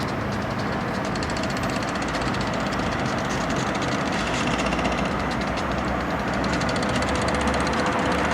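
Union Pacific intermodal freight train running past, its diesel locomotive engines droning steadily over the noise of the train, growing slightly louder toward the end.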